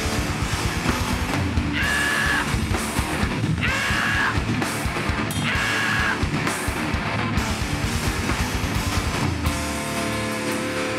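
Hardcore band playing live: loud distorted electric guitars and bass over fast, dense drumming, with three short high-pitched accents about two seconds apart. Near the end it settles into a held, ringing chord.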